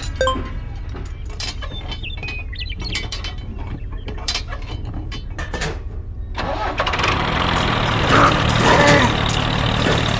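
Engine running steadily, with scattered clicks and clatter; about six and a half seconds in a louder engine sound comes in.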